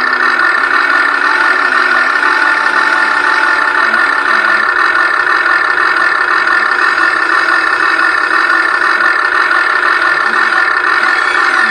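Huina 1580 radio-controlled excavator's electric motors and gearboxes whining steadily as the machine is worked.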